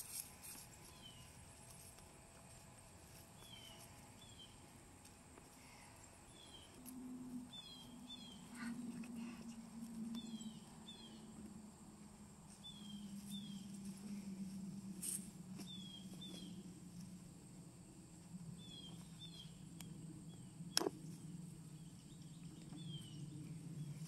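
A bird calling over and over in short, falling chirps, mostly in pairs. A low rumble comes in about seven seconds in, and there is one sharp click near the end.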